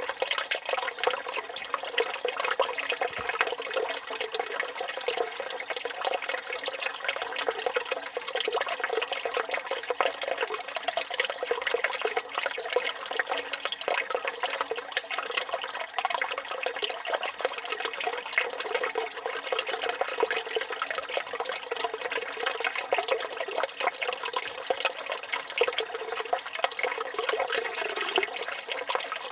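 Water from a village fountain's spout pouring and splashing steadily into the stone basin below, unbroken throughout.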